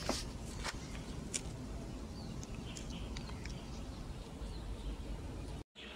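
Faint outdoor background with scattered short, high bird chirps.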